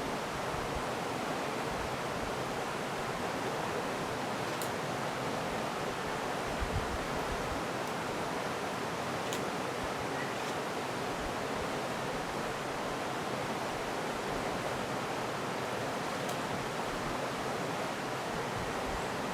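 Steady rushing of running water, with a few faint high ticks.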